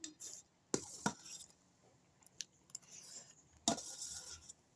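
Eating noises: a utensil clinks and scrapes against a plate a few times, with the mouth sounds of chewing noodles.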